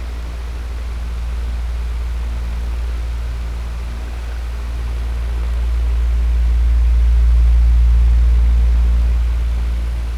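Electric fan running steadily: a low hum under an even hiss of moving air, slowly swelling louder past the middle and easing off near the end.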